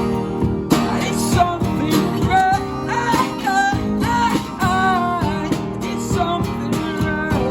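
Acoustic guitar strummed in a steady rhythm while a voice sings a melody over it, from about a second in: a live acoustic performance of a rock song.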